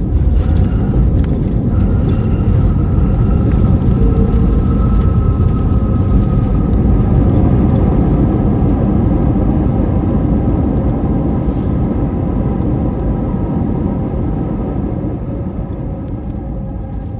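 Airbus A321neo cabin noise on the ground just after landing: a loud, steady rumble of the engines and the wheels on the runway, with a few steady engine tones, easing off over the last few seconds as the aircraft slows.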